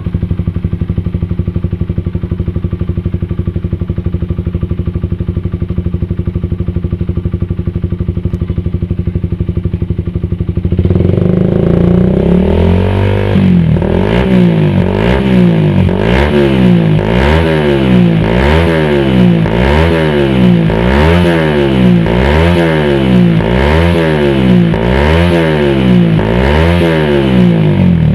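Suzuki Satria FU 150's single-cylinder four-stroke engine through an HNR racing exhaust, idling steadily, then from about eleven seconds in revved over and over in quick blips, about one a second.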